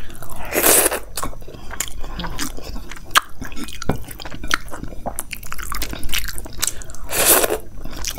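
Close-miked chewing of a handful of veg dum biryani mixed with raita: wet, clicking mouth sounds, with fingers squishing rice on the plate. Two louder rushing sounds come just under a second in and again near the end.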